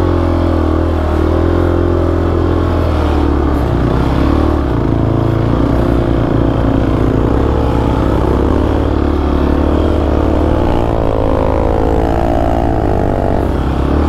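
Dirt-bike engine running under load while riding, its revs rising and falling steadily.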